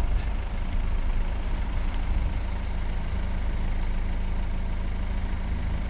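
A car's engine running steadily, a low even rumble heard from inside the cabin.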